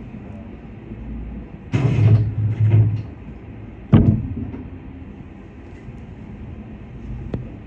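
Passenger doors of a Shinano Railway SR1 series train sliding shut, a loud rush of sound over about a second, then one sharp thud as they close.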